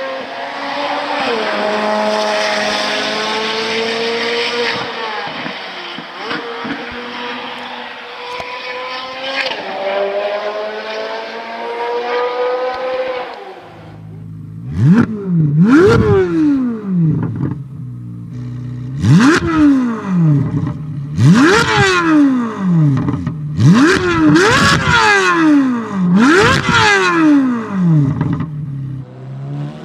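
Chevrolet Corvette C8 Z06's flat-plane-crank V8 exhaust, first running under way with its pitch sliding up and down as it changes gear. About fourteen seconds in, a different recording starts: the engine revved hard about seven times, each rev a quick climb and fall in pitch.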